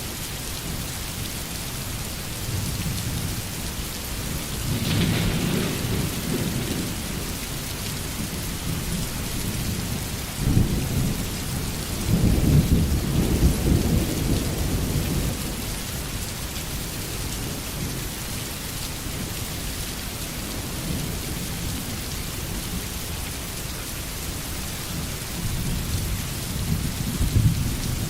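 Steady heavy rain hissing on surfaces, with thunder rumbling in the distance. About ten seconds in, a sharper thunderclap breaks out and rolls on for several seconds, and more low rumbles come near the end.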